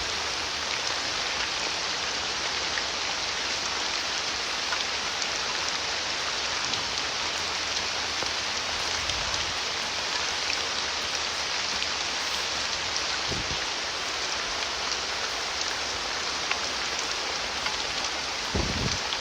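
Rushing creek water tumbling over rocks and small falls, a steady unbroken rush, with two soft low thumps partway through and near the end.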